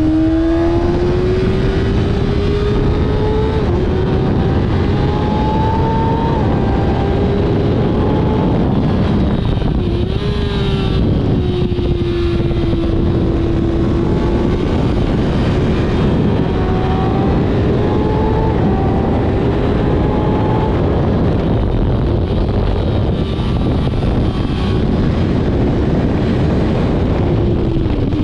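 Kawasaki ZX-6R inline-four engine running hard at speed, its pitch climbing and then dropping sharply at gear changes a few times, under a heavy rush of wind noise.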